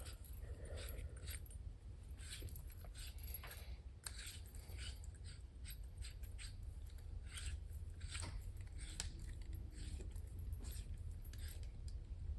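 Faint, irregular metallic clinks and scrapes of hand tools and bolts being handled and threaded in, over a steady low hum.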